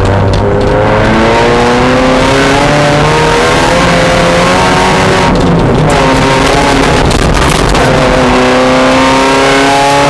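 Mazda Miata race car's four-cylinder engine under hard acceleration, its pitch climbing steadily, with a brief lift and drop in pitch for an upshift about five and a half seconds in before it climbs again.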